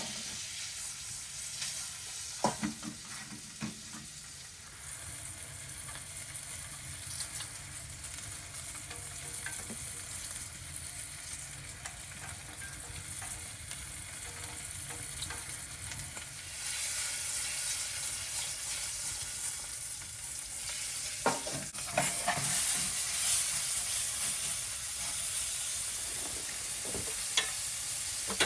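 Ice-cold steak searing in butter in a pan over a wood fire, a steady sizzle that grows louder about two-thirds of the way through. A few sharp knocks come a few seconds in and again shortly after the sizzle grows.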